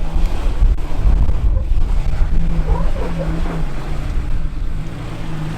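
Off-road vehicle engine running at low revs while crawling a rock trail, under heavy wind buffeting on the microphone.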